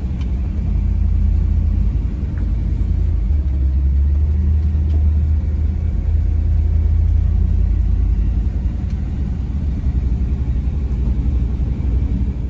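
1957 Chevrolet Bel Air's engine and exhaust running steadily with a deep low rumble.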